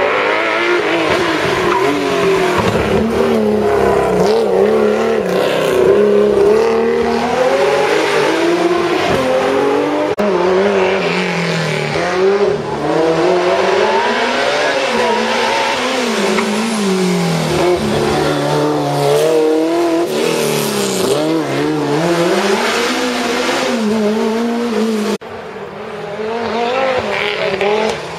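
Historic rally cars driven hard on a closed special stage, one after another. Each engine revs up and drops back over and over through the gear changes, with sudden changes about ten seconds in and again near the end as a different car takes over.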